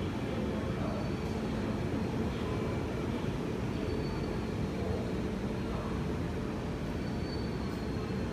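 Steady rumble of an Indian Railways express train running on the track, with no distinct wheel clicks standing out.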